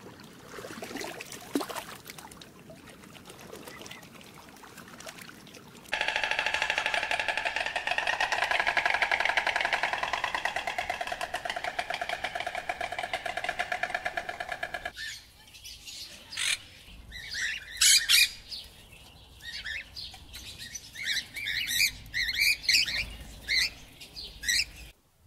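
Faint water sloshing for the first few seconds. Then a loud, steady, fast-pulsing buzz for about nine seconds. After that it cuts to birds calling in short chirps and squawks.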